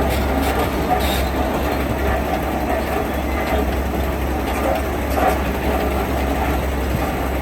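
Heavy diesel construction machinery running: a steady engine drone with a strong deep hum and a few faint knocks.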